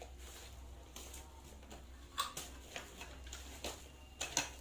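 Scattered light clicks and knocks of metal parts being handled: a manual noodle machine's crank handle and table clamp being fitted, with the sharpest knocks about two seconds in and near the end.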